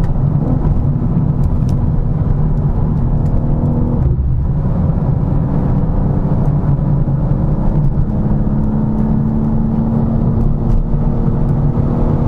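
BMW M4 Competition (G82) with its twin-turbo straight-six running under way, a steady engine hum over tyre and road noise, with a brief dip about four seconds in, like a gear change, after which the engine holds a steady note. The car is on its stock exhaust and the engine sounds subdued.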